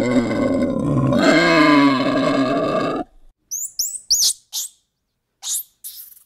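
A boar's long, low call that wavers in pitch and stops about three seconds in. It is followed by a squirrel monkey's short, high chirps and squeaks, several in quick succession, some sliding in pitch.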